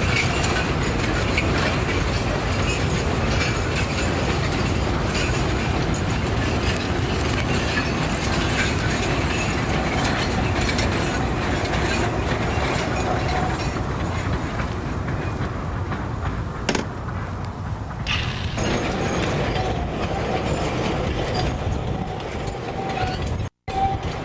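Narrow-gauge Taiwan Sugar cane train running on its line: a steady rumble of wheels and wagons on the rails. The sound cuts out abruptly for a moment near the end.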